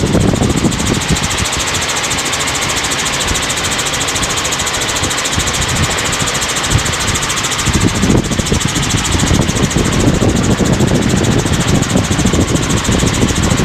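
Helicopter in flight: the steady drone of engine and rotor, with a rapid even pulsing through it. The low end grows stronger about eight seconds in.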